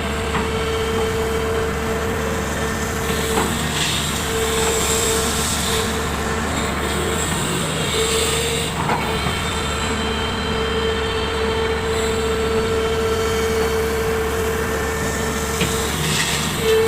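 Heavy machinery running steadily with a sustained high whine, with a few faint knocks.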